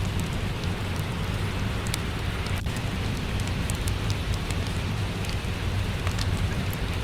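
Steady rain with a low rumble underneath, mixed with a wood fire crackling: scattered small sharp pops throughout.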